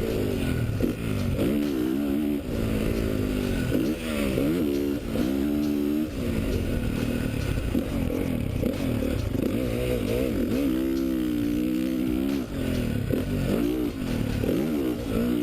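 2013 Honda CRF450's single-cylinder four-stroke engine, heard onboard, revving up and dropping back again and again as the throttle is opened and chopped, with gear changes between pulls.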